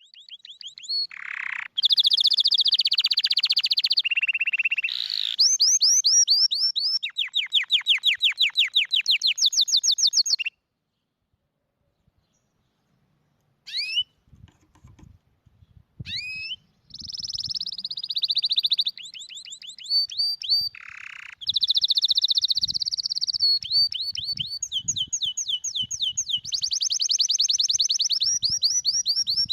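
Domestic canary song: long runs of rapidly repeated high notes and buzzing trills, each run switching to a new note type. There is a pause of about three seconds near the middle before the song starts again.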